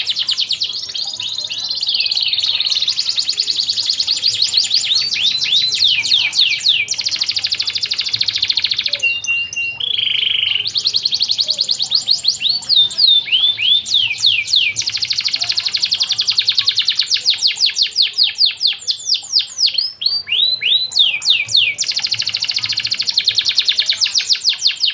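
Domestic canary singing a long, fast song of rapidly repeated sweeping notes, with a short break about nine seconds in followed by a brief held whistle.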